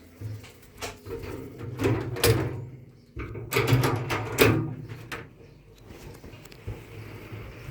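A run of knocks and scrapes from objects being handled, loudest about two seconds in and again around four seconds in, then quieter.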